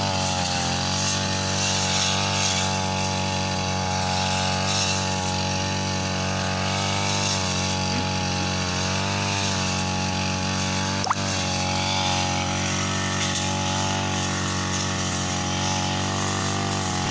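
Brush cutter running steadily at high speed, its pitch dipping slightly now and then as it cuts. A single sharp click comes about eleven seconds in.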